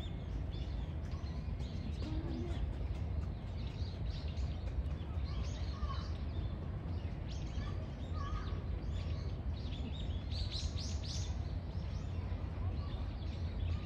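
Outdoor ambience: a steady low rumble with scattered short, high chirps of small birds, and a quick run of chirps about ten seconds in.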